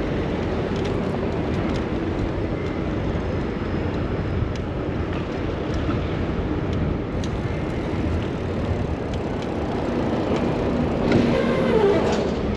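City street traffic heard while riding a bicycle: a steady rumble of vehicles with scattered small clicks. It swells louder near the end, with a steady engine-like tone.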